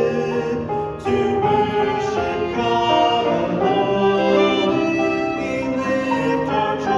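Music from a church ensemble: many sustained notes sounding together, with a brief dip in loudness about a second in.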